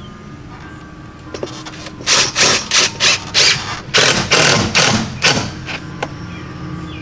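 Power driver with a long 1/4-inch drive bit running in a series of short bursts, driving long pole barn screws to mount a light fixture. The bursts begin about two seconds in and stop about five and a half seconds in.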